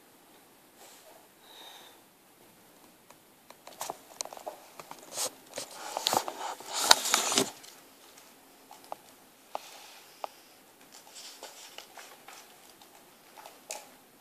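A baby eating out of a bowl: a run of sharp clicks, knocks and scraping, densest and loudest from about four to seven and a half seconds in, with a few isolated clicks before and after.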